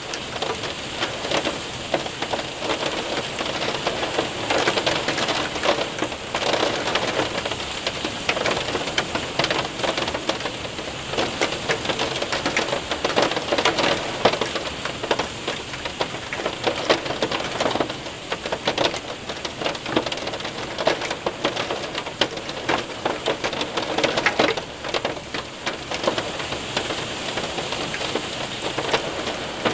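Hail and rain pelting a window and roof: a dense, steady patter of countless small hits, with many sharper individual ticks of hailstones on the glass.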